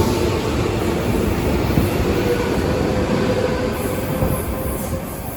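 8-car JR West 225 series 5000 and 223 series 1000 electric multiple-unit train running by, a steady rumble of wheels on rail with a faint steady whine. The sound eases off a little near the end.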